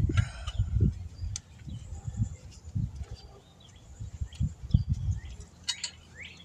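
Small birds chirping in short, downward-sliding calls, over intermittent low thumps and rumbles.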